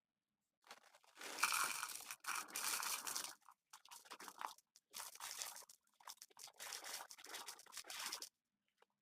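Dry crunching and crinkling of snack food being handled, in three spells with short breaks between them.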